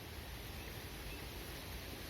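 Steady outdoor background noise with a couple of faint, short high chirps.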